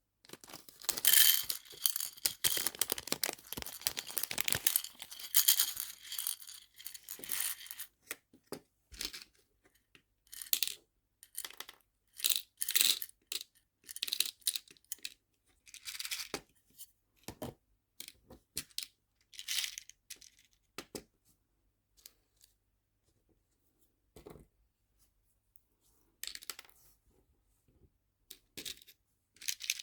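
Small nail-art charms being handled and sorted into plastic storage boxes: a dense run of rattling and clicking for the first several seconds, then scattered light clicks and short rattles with pauses between them.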